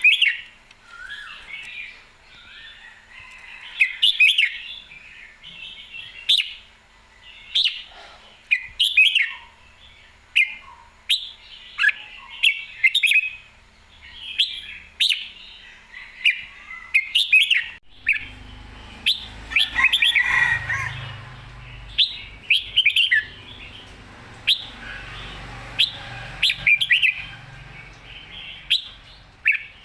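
Red-whiskered bulbul singing: short, quick warbled phrases repeated every second or so, with sharp clicks in between. A low rumble joins about two-thirds of the way in.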